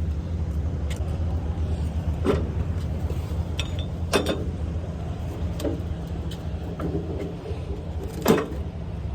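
Steady low engine and road drone heard from inside a moving vehicle, with a few sharp knocks and rattles. The loudest knock comes near the end.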